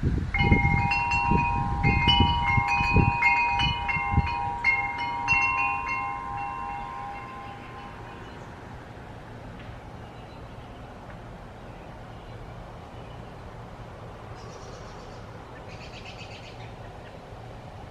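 Chimes ringing with many quick, overlapping strikes that hold and die away by about eight seconds in. Low rumbling thuds, like wind on the microphone, run under the first few seconds.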